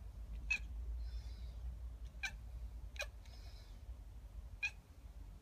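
A kitten chirping at seagulls: four short, sharp chirps spaced unevenly over a few seconds. This is the chatter a cat makes while watching birds it can't reach.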